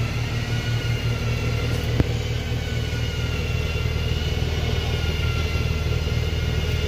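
Kia Stinger idling with a steady low exhaust rumble and a faint steady whine above it. A single sharp click about two seconds in.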